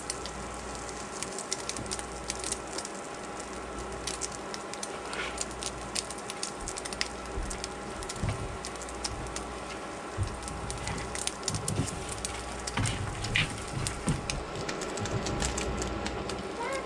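Food sizzling and crackling in a frying pan, a steady dense crackle with a faint steady hum underneath and a few soft knocks in the second half.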